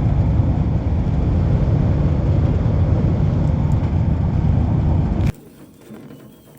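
Steady road and engine rumble inside a moving car, which cuts off abruptly about five seconds in and leaves only a faint background.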